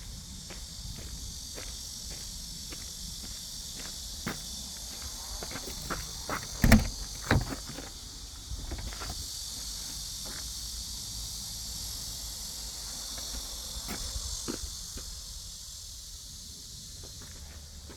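Steady high-pitched hiss with scattered light clicks, and two loud knocks close together about seven seconds in.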